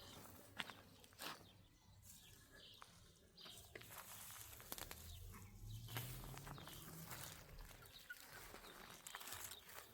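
Faint outdoor ambience. There are a few soft clicks in the first second or so, then a low hum from about the middle that rises slightly in pitch and fades back.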